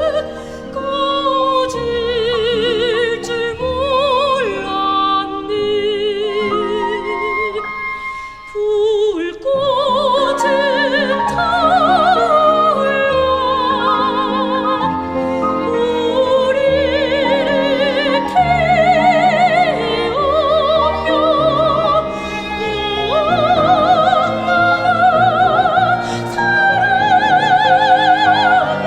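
Soprano singing a Korean art song in an operatic style with wide vibrato, over a small instrumental trio accompaniment. A short break in the voice comes about eight to nine seconds in.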